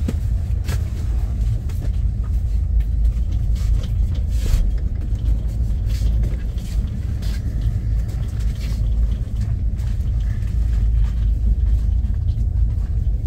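Train running through a station: a steady low rumble with scattered sharp clicks and knocks from the wheels on the track.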